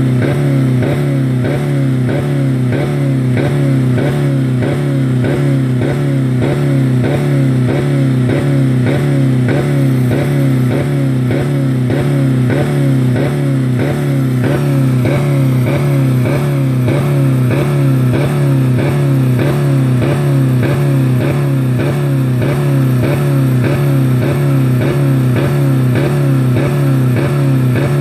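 2000 Dodge Neon's four-cylinder engine held at high revs, about 4000 rpm, pedal to the floor, running with no oil or coolant left in it. Its steady drone carries a regular, even pulse.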